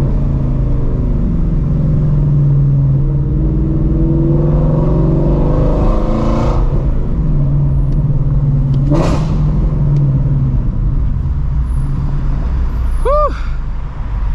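Straight-piped Ford Mustang Shelby GT350 with long-tube headers, its 5.2-litre flat-plane-crank V8 exhaust pulsing as the car accelerates and eases off in city driving, pitch rising and falling. The exhaust echoes off the surrounding buildings, with a sharp burst about nine seconds in.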